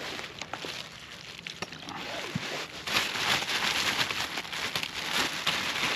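Plastic bag crinkling and rustling with broken-up matzah crunching inside it as it is handled, getting louder about three seconds in.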